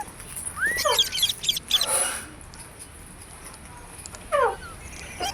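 Green parrots calling: a cluster of short squawks and sweeping screeches in the first two seconds, a harsh call at about two seconds, then a lull and another short screech a little past four seconds. A steady high-pitched hiss runs underneath.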